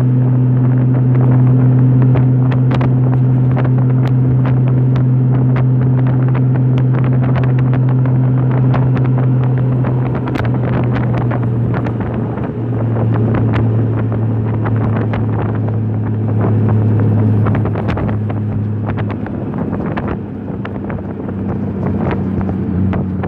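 Honda motorcycle engine running at steady highway cruising speed, with wind buffeting the microphone. The engine note eases a little lower about halfway through and again near the end.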